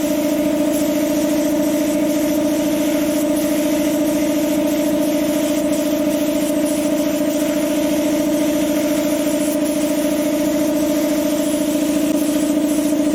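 Steady motor hum with an even hiss above it, unchanging throughout: the air supply for spray painting the car panel.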